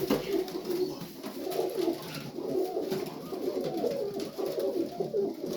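Several domestic pigeons cooing in a loft, their low warbling coos overlapping without a break.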